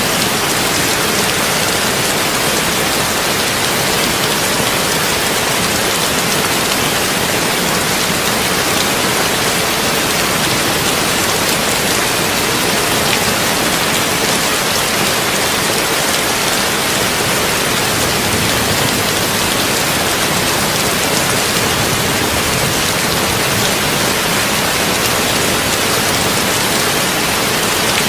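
Steady heavy rain on a tin roof, an even dense hiss that holds at one level throughout.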